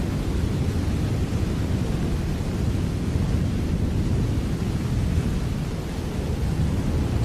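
Steady rain: a dense, even hiss over a deep, constant low rumble, with no separate drops or thunderclaps standing out.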